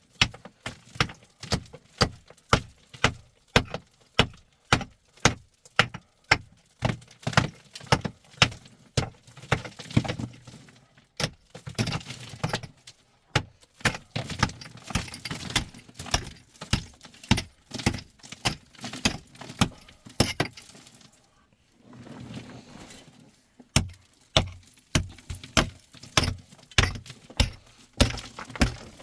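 A long series of short, sharp knocks, about two a second, stopping twice for a second or two of quieter rustling before starting again.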